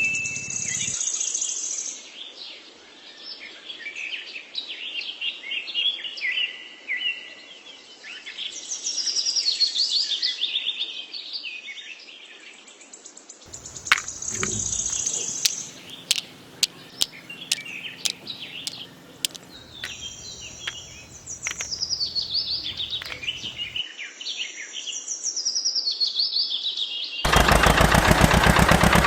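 Small birds chirping and singing in quick trills, with a row of sharp clicks about halfway through. Near the end a loud, rapid mechanical rattle starts abruptly and drowns them out.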